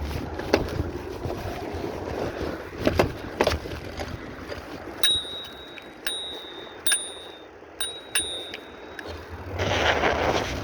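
A small bell rung about five times in quick succession from about halfway through, each a short clear ding. A few sharp knocks come before it, and a brief rushing noise near the end.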